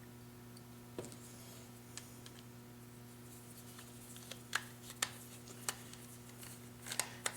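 Faint clicks and taps of small carburetor parts and screws being handled during reassembly: one tick about a second in, then a few more later on, over a steady low electrical hum.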